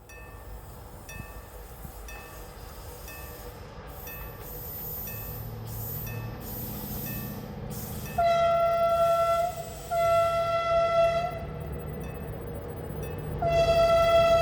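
Approaching train, its low rumble growing, sounding its horn three times: two short blasts and then a longer one near the end. The horn holds one steady pitch. Faint, evenly repeating short tones can be heard before the horn.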